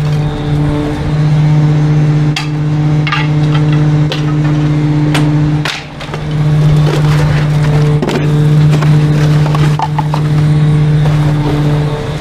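Trash truck's engine running at a steady pitch, with several sharp knocks and clanks over it and a brief drop in level about halfway through.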